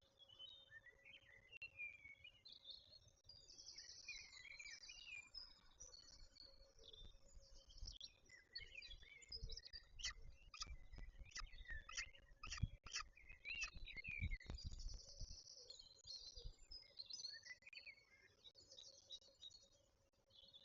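Faint bird chirps and calls with short buzzy trills, over a low rumble of wind on the microphone. A run of sharp clicks comes in the middle.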